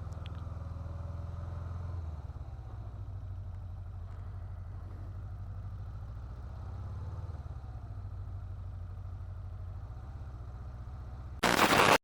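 Yamaha XJ600 motorcycle's inline-four engine running at low revs as the bike rolls slowly; its low, steady note shifts about two seconds in. Near the end a brief loud rush of noise comes in, and then the sound cuts off suddenly.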